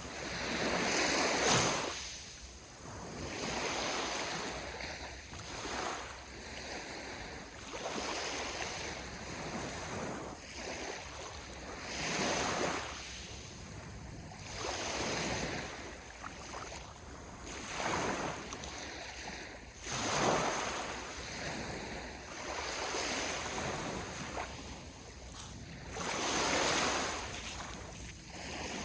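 Sea waves breaking on the shore: a surge of surf every two to four seconds, each swelling and then washing back, the strongest about a second in, about twenty seconds in and near the end.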